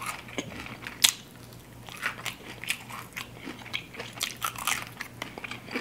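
Biting and chewing crispy fried chicken wings: a sharp crunch about a second in, then crackly chewing with scattered small crunches.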